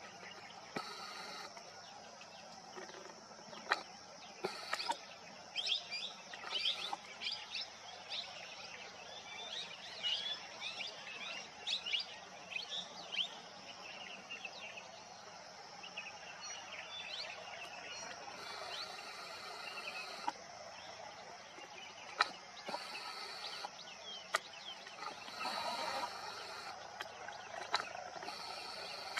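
Many short, high bird chirps, thickest in the first half, over a steady high-pitched drone, with a few sharp clicks scattered through.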